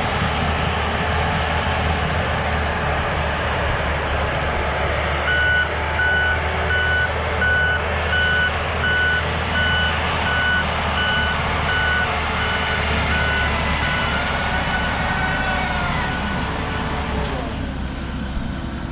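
Mini excavator running with its Rut brush cutter head, engine and hydraulics going steadily. From about five seconds in until about fifteen seconds, its travel alarm beeps about twice a second as the machine tracks.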